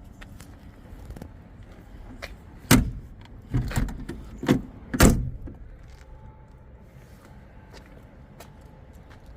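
A car door on a 1938 Buick Special being worked open and shut: a run of about four sharp clunks and latch knocks in two and a half seconds, starting just under three seconds in, the last the loudest.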